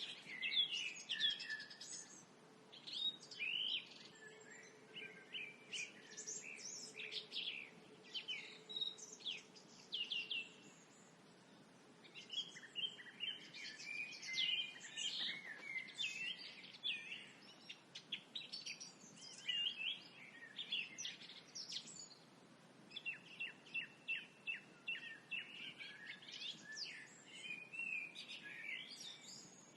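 Several songbirds singing and chirping at dusk, short sweeping notes and trills overlapping, with a brief lull about eleven seconds in and another near twenty-two seconds. A faint steady hum sits underneath for the first part.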